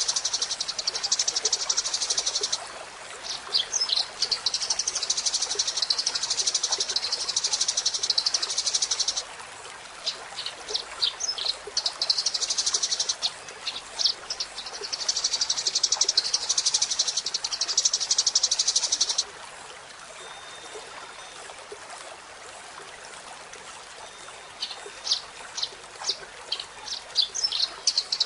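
Eurasian tree sparrow singing: long runs of fast, dense, high chattering, broken by spells of separate sharp chirps and a quieter pause of a few seconds in the second half.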